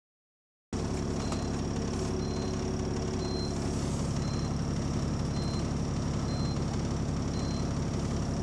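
Bus diesel engine running steadily with a rapid low puffing from a leaking exhaust, starting about a second in. A short high beep repeats about once a second over it.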